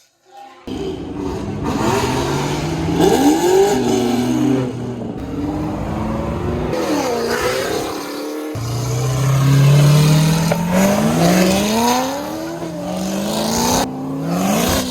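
Car engines revving and accelerating, pitch rising and falling again and again, with one long rising pull about midway through. The sound breaks off abruptly twice, as if cut between separate takes.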